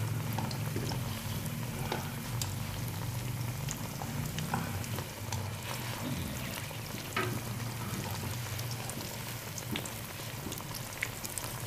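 Suji-besan kebabs frying in hot ghee in a nonstick karahi: a steady sizzle with scattered crackles and pops. They are being turned over with metal tongs, which give a few light clicks against the pan.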